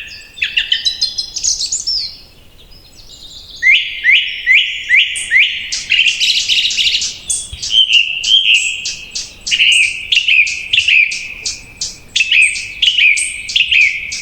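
Songbirds chirping: quick, high, sharply slurred notes, then a brief lull about two seconds in. After that comes a long run of repeated chirps, two or three a second.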